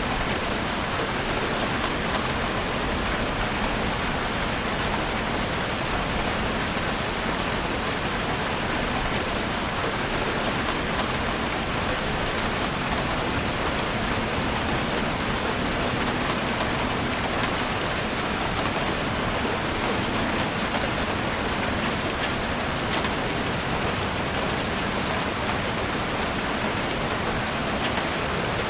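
Heavy rain drumming steadily on a roof, a dense even hiss with many small drop ticks.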